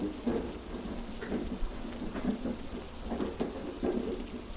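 Heavy rain ambience: a steady hiss of rain over a low, continuous rumble, with faint scattered taps.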